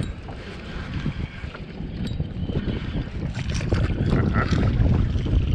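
Wind buffeting the microphone over water splashing around a kayak, the splashing louder and choppier in the second half.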